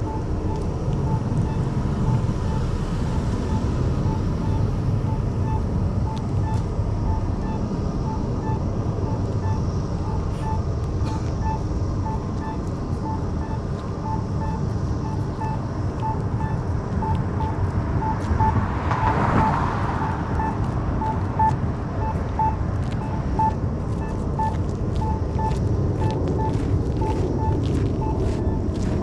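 Steady low rumble of a vehicle, with a short electronic beep repeating about twice a second throughout, like a warning chime. A brief louder whoosh comes about two-thirds of the way through.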